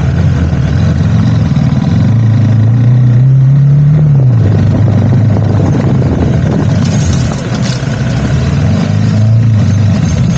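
Motorcycle engine running under load at low speed. Its pitch climbs for about four seconds, then falls back and holds steady.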